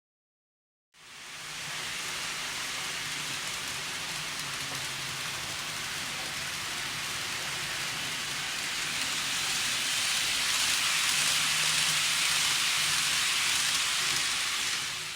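N gauge model train running on its track: a steady hiss of wheels and motor with a faint low hum, starting about a second in and getting a little louder past the middle.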